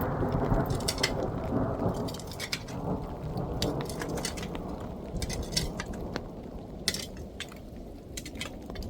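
A long roll of thunder, loudest at first and slowly fading, over steady rain, with sharp taps of drops striking a surface close by.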